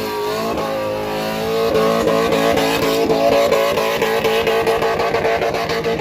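Car engine being revved hard: its pitch climbs over the first couple of seconds, then holds steady at high revs.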